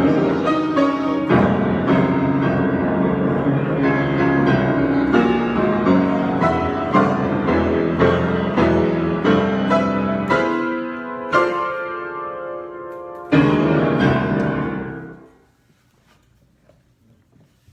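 Solo piano improvisation: a run of struck notes and chords, ending about 13 seconds in with a loud final chord that rings out and dies away, then near silence.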